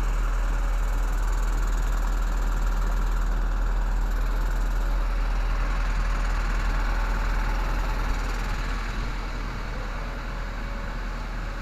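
H-Thermo truck refrigeration unit running with a steady drone and a strong low hum, easing off slightly about eight seconds in. Its condenser fans are not switching on, the fault being traced.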